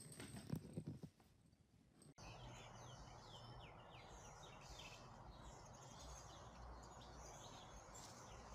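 Small birds chirping faintly over a low, steady outdoor background. In the first second or so there are a few soft knocks.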